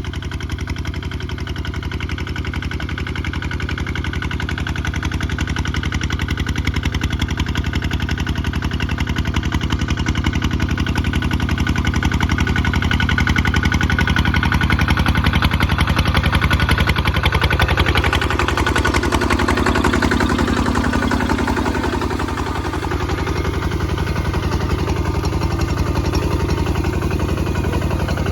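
Kubota ZT155 single-cylinder diesel engine running steadily while plowing, its firing beat continuous, growing a little louder toward the middle, then briefly dipping and recovering in pitch about two thirds of the way through as the load changes.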